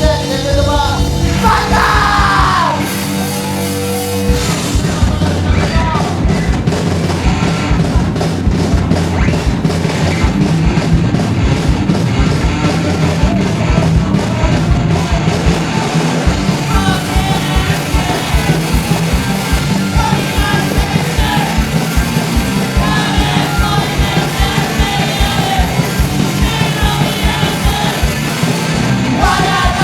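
Punk band playing live: distorted guitars, bass and fast drums with shouted vocals. The bass and drums drop out briefly about three seconds in and the full band crashes back in about a second later.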